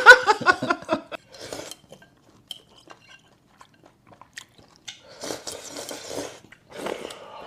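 A person eating noodles from a bowl, with utensils clinking against the dish and chewing. There is a brief voice-like sound in the first second, and a longer noisy stretch of slurping about five seconds in and again near the end.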